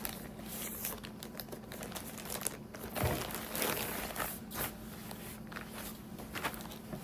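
Crinkly packaging being handled and crumpled as a clothing item is unwrapped, with irregular rustles and crackles throughout.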